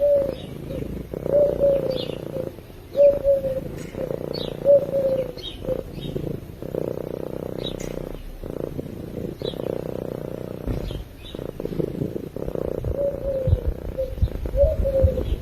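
Domestic cat purring steadily while asleep, a continuous pulsing rumble. Short falling chirps recur about once a second over it.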